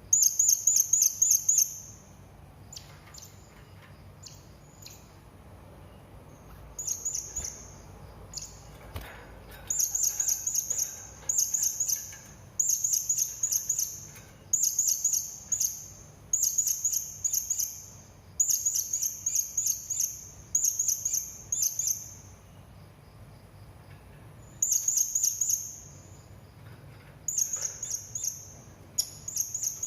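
Serindit (hanging parrot) calling in repeated bursts of rapid, high-pitched chirps. Each burst lasts about a second, with short pauses between them.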